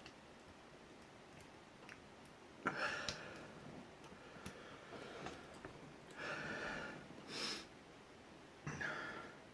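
A person exhaling hard through the nose four times, the loudest about three seconds in and near the end. Faint, sparse clicks of lock picks working a padlock sound between the breaths.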